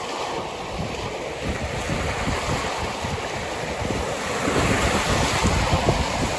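Caspian Sea waves washing onto the shore, with wind buffeting the microphone. The surf grows louder over the second half.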